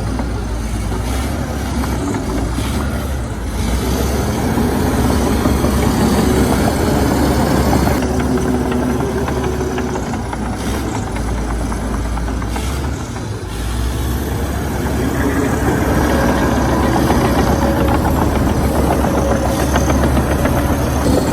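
Heavy diesel engine of earthmoving machinery running steadily under changing load, its note swelling and easing, with a brief dip about two-thirds of the way through.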